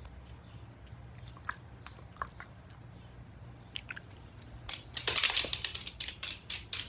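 Elderly rat terrier's nose and mouth sounds: a few faint clicks, then about five seconds in a loud, short noisy burst of breath, followed by quick, irregular smacking clicks.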